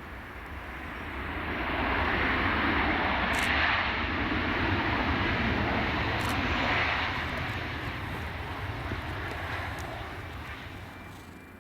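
Jet aircraft passing: a broad engine rush that swells over about two seconds, stays loud for several seconds, then fades away.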